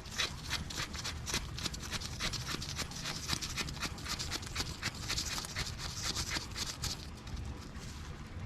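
Hand-operated fluid pump worked in fast, regular strokes, pushing gear oil through a hose into a manual transmission's fill hole.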